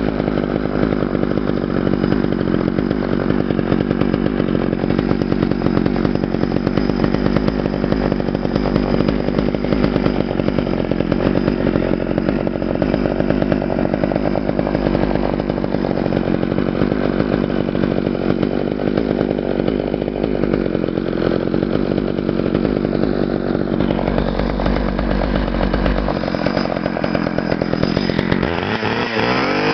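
Homelite 245 two-stroke chainsaw engine running steadily, then revved up and down near the end.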